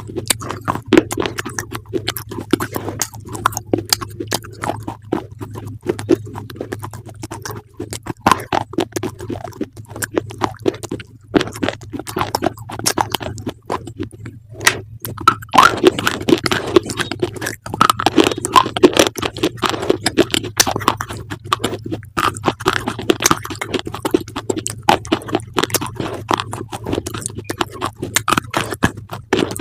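Close-up crunching and chewing of crisp food: a dense, uneven stream of sharp crunches that grows busier about halfway through, over a faint steady low hum.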